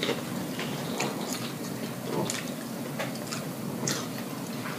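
Close-miked open-mouth chewing and lip smacking: soft, wet clicks come every half second to a second over a quiet room.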